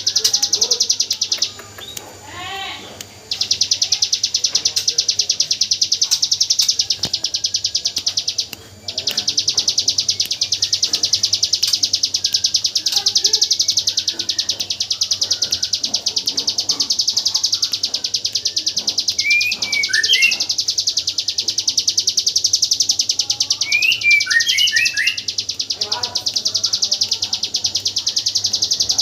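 Hill prinia (ciblek gunung) singing its 'AK47' song: an unbroken machine-gun run of very fast, high notes that stops for about two seconds near the start and briefly again near nine seconds. A few separate lower chirps stand out around twenty and twenty-four seconds.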